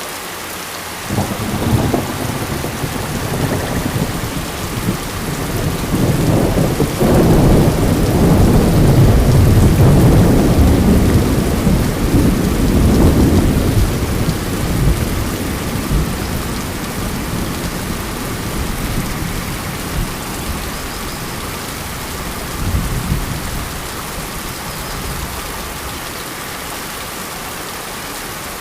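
Steady rain falling during a thunderstorm. A sharp crack of thunder comes about two seconds in. It opens into a long rolling peal that swells to its loudest about ten seconds in and slowly dies away, with a shorter rumble near the end.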